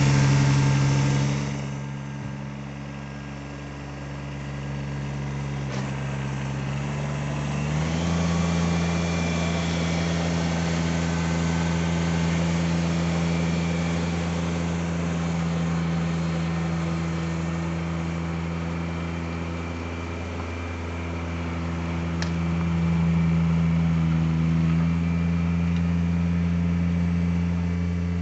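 Kubota BX1850 compact tractor's three-cylinder diesel running steadily, presumably driving the rear PTO rototiller. About eight seconds in, the engine note steps up a little in pitch and gets louder, then holds.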